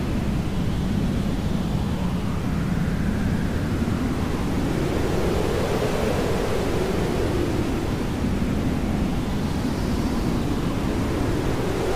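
Hair dryer running steadily: an even rushing noise weighted toward the low end, its tone slowly drifting up and down.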